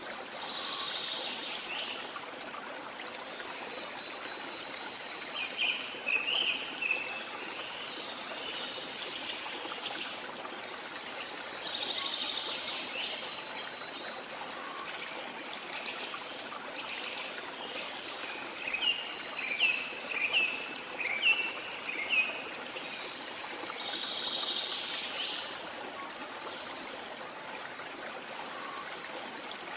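Steady rush of waterfall water, with birds singing over it. Quick chirps come in bursts about six seconds in and again from about 18 to 22 seconds, between softer warbling.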